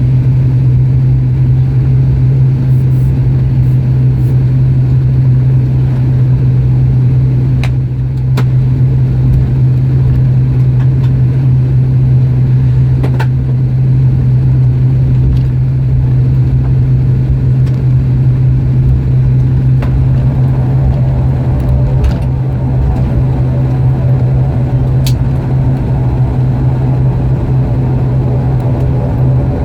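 Turboprop airliner's engines and propellers heard from inside the cabin: a steady, loud low drone. About 20 s in, a second layer of higher, evenly pitched engine tones joins, with a few light clicks from the cabin scattered throughout.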